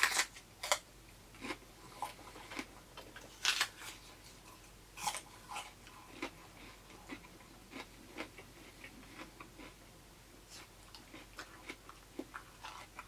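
Close-up chewing of crunchy raw produce: a few sharp crunches near the start and around three to five seconds in, then a run of softer, quicker chewing clicks.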